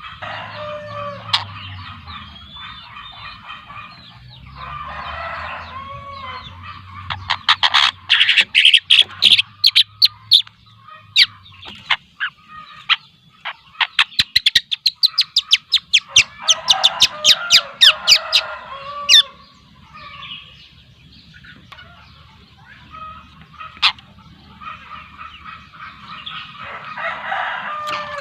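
Young long-tailed shrike, about two months old, calling: a scratchy chatter with two long runs of loud, rapid sharp notes, about seven seconds in and again about fourteen seconds in. A faint low hum lies underneath.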